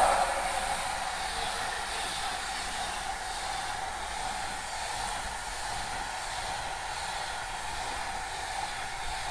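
Passenger train passing close by on the adjacent track: a steady rushing noise of carriages rolling past, loudest right at the start.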